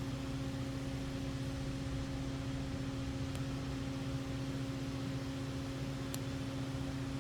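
Steady machine hum at one constant pitch, from a motor running in the room, with a couple of faint light clicks about three and six seconds in.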